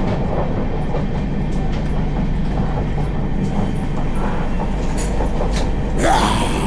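Passenger train running on the rails: a steady low rumble with scattered clicks. About six seconds in there is a brief louder sound that falls in pitch.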